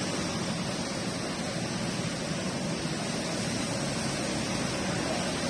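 Steady rain falling, an even hiss with no single drops or strikes standing out.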